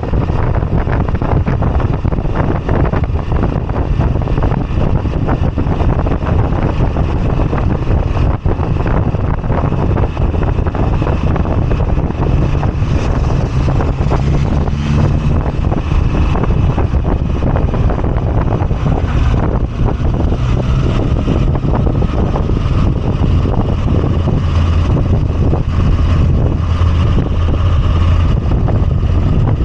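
Moto Guzzi V85TT's air-cooled transverse V-twin running steadily while the motorcycle is ridden, a continuous low rumble with wind noise on the microphone.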